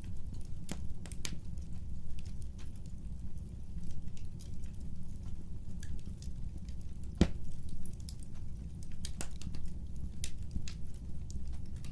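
Wood fire burning with a steady low rumble of flames and irregular crackles and pops from the burning logs, one sharper snap about seven seconds in.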